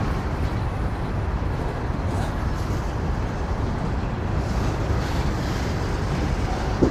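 Steady, loud rumble of a train running past.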